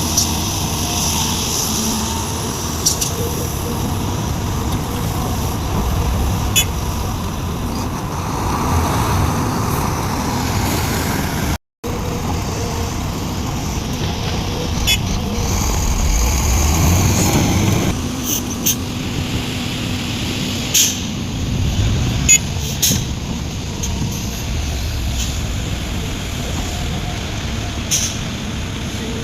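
Heavy diesel engine of a Sumitomo SH350 excavator working a load into a dump truck, running steadily and rising in pitch for a couple of seconds a little past the middle, with scattered sharp knocks. The sound cuts out for a moment just before halfway.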